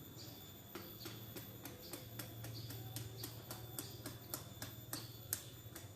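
Irregular sharp clicks and ticks, a few a second, over a faint low steady hum.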